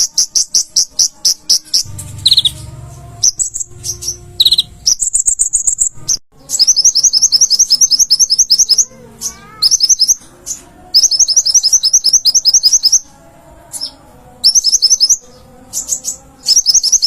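Olive-backed sunbird (kolibri ninja) singing in rapid trains of short, high, sharp chirps. Each burst lasts about one to two seconds, with brief pauses between bursts.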